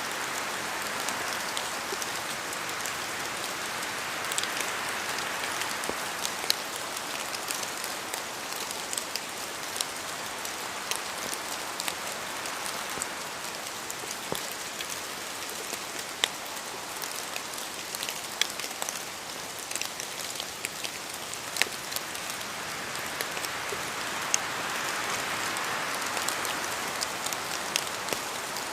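Steady rain falling through forest trees, an even hiss dotted with scattered sharp taps of larger drops falling from the branches. The hiss swells twice, a few seconds in and near the end.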